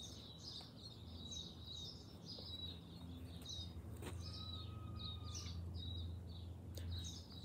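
Small garden birds chirping, short high calls repeating several times a second, over a faint low steady rumble of outdoor background noise.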